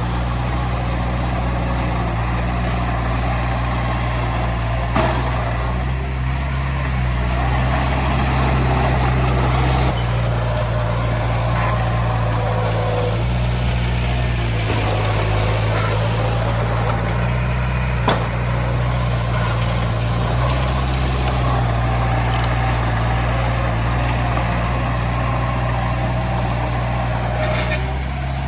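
Heavy diesel earthmoving machinery running under load, its engine note shifting a few times. Two sharp metallic knocks, about 5 s and 18 s in.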